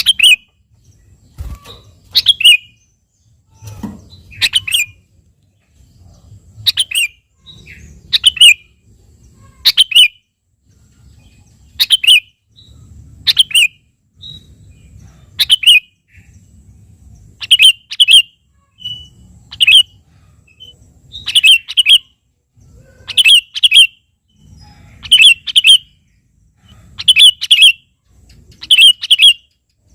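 Male sooty-headed bulbul calling: short, sharp, loud notes in singles, quick pairs or small clusters, repeated every second or two.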